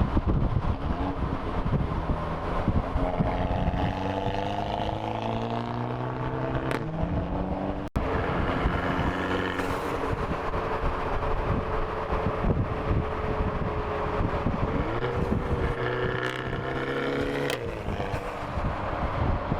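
Dodge Dart's 1.4-litre turbocharged four-cylinder running through a straight-piped exhaust, its muffler and resonator removed. The engine pitch rises as the car accelerates and drops back several times, with wind on the microphone.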